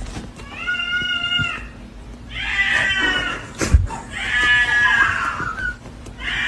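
A cat meowing: three long, drawn-out meows one after another, with a fourth beginning near the end. There is a sharp knock between the second and third meows.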